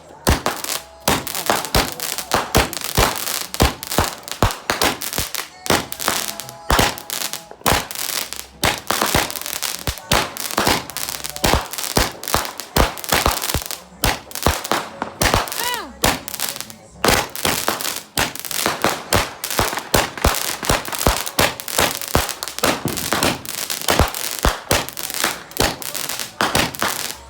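Fireworks and firecrackers going off in a rapid, continuous string of sharp bangs and crackling pops. About halfway through, a few whistles rise in pitch.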